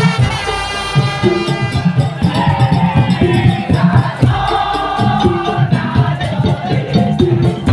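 Madurese tongtong (daul) band music: fast, dense drumming under held and sliding melodic lines.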